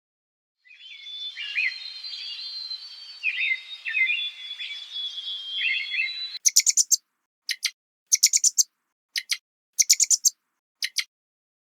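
Small birds chirping and twittering with quick gliding notes, then, after an abrupt switch about six seconds in, sharp short chirps in quick groups of two to five.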